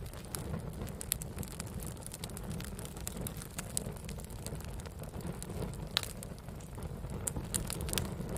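Wood fire burning: a low, steady rumble with scattered sharp crackles and pops, the loudest about six seconds in.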